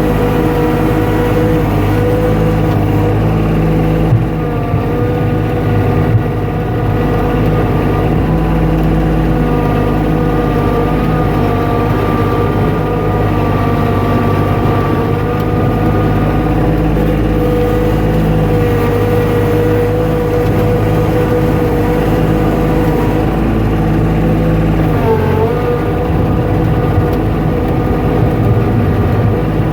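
An engine running steadily at a constant speed, its pitch wavering briefly about 25 seconds in.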